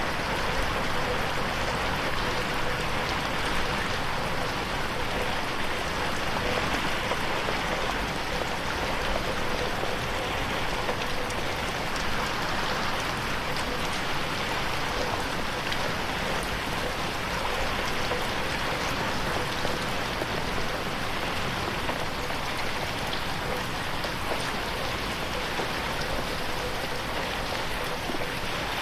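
Steady rain falling and pattering on a window pane, with the fine ticks of single drops in an even hiss.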